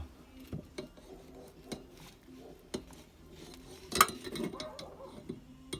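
Metal parts and tools clinking and knocking while a Sachs shock absorber is being taken apart: scattered sharp clicks, with a louder clank about four seconds in followed by a brief rattle.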